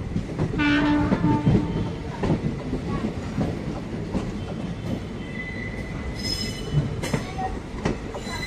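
Express passenger train pulling out, its coaches rolling with repeated clicks of wheels over the rail joints. A short horn blast sounds for about a second, about half a second in. Brief high squeals come in the second half.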